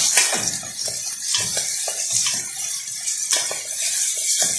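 Chopped onions, green peppers and garlic sizzling in hot oil in a metal pot, with a wooden spoon stirring and scraping the bottom in repeated strokes about every half second.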